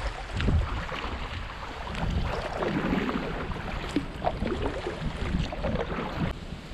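Kayak on a river: water splashing and dripping around the paddles and hull, with wind buffeting the microphone. The splashing thins out abruptly near the end.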